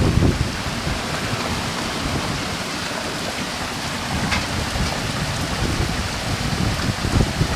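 Steady rain falling, a constant even hiss, with brief low rumbles near the start and near the end.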